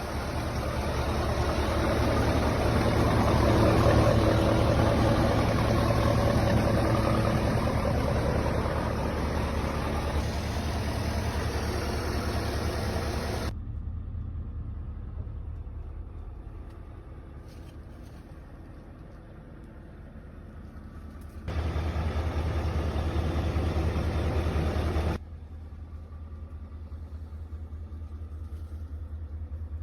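Scania S770's 16-litre V8 diesel engine idling steadily with a deep low rumble. The sound grows louder over the first few seconds, drops abruptly about 13 seconds in, and jumps louder again for about four seconds some 21 seconds in.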